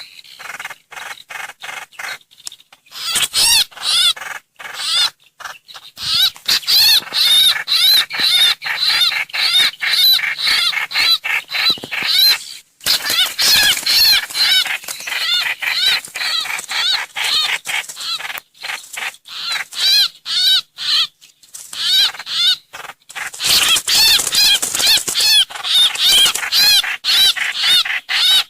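Trao trảo (hoành hoạch) bird calls played as a lure: long runs of rapid, loud chattering notes, broken by a few short pauses.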